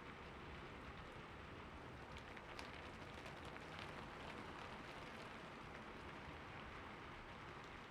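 Soft steady rain falling on city surfaces, an even hiss with scattered faint drip ticks.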